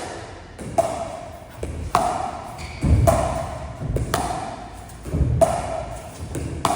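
Pickleball paddles hitting the ball back and forth in a dink rally, one sharp ringing pop about every second, with some duller thuds in between.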